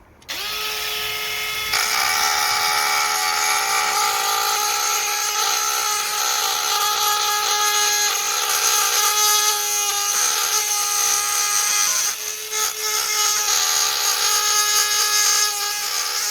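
Dremel rotary tool starting up with a steady high whine, then grinding away the motorcycle's plastic tail panel from about two seconds in. It eases off briefly about three quarters of the way through, then bites again.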